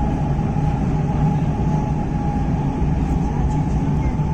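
Steady rumble of a moving train heard from inside the passenger car, with a faint steady whine above it.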